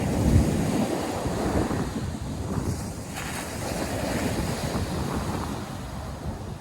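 Ocean surf washing onto a beach, mixed with wind buffeting the microphone in gusts.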